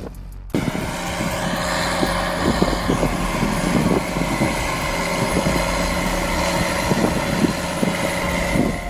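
Heavy tractor engine running steadily with a constant drone, with scattered knocks and clatters from the machinery. The sound cuts in about half a second in.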